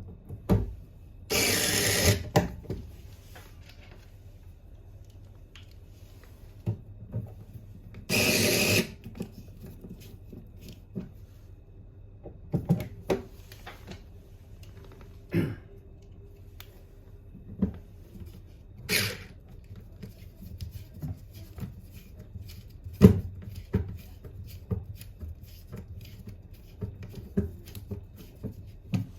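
Two short rushes of hiss-like noise, about a second each, near the start and about eight seconds in, and a briefer one later. Scattered clicks and knocks of handling around them, one sharp knock standing out near the end.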